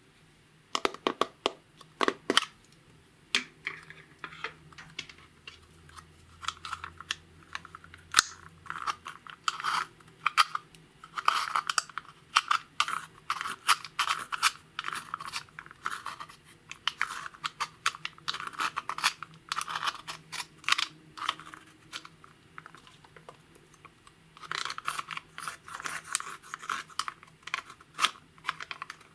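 Clear slime being kneaded and stretched by hand: a rapid, irregular series of sticky clicks, pops and crackles, with a brief pause about two-thirds of the way through.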